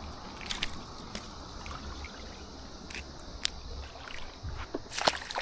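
Waterside ambience: water trickling with a steady low rumble underneath, and a few short sharp clicks scattered through.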